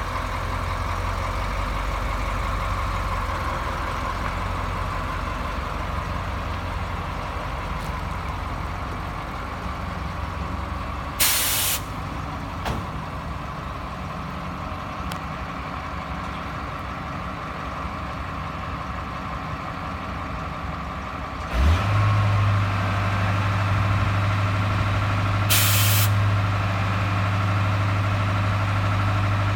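Engine of a four-drum line puller truck running at a steady idle, with two short air hisses, one about a third of the way in and one near the end. A little after two-thirds of the way in the engine steps up to a higher, louder steady speed.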